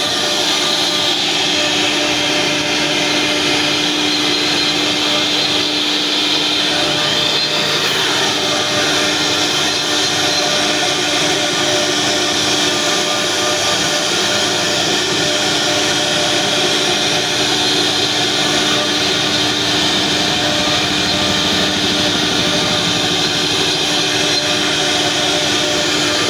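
CNC router spindle running steadily as it carves a 3D design into a wooden bed board, a constant whine over a wide hiss of cutting.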